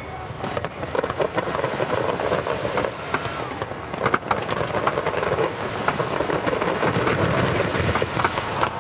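Large fireworks display going off: a dense, continuous crackle of bursts and bangs, building up about a second in and staying loud.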